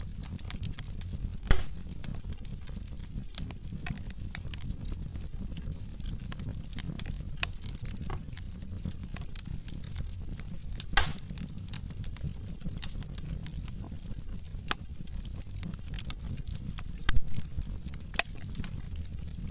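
Burning logs in a fireplace crackling: a steady low rumble of flames under constant small snaps, with a few louder pops, about a second and a half in, near the middle, and twice near the end.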